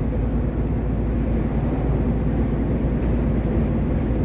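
Steady diesel engine drone and road rumble inside a moving truck's cab, with an even hum and no change in speed or load.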